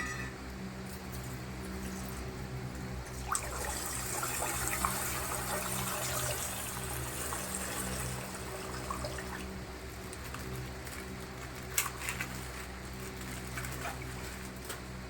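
Water trickling and pouring out of a water-filled plastic ice pack as it is burst and emptied, loudest a few seconds in. There are a couple of sharp plastic clicks, and a steady low hum runs underneath.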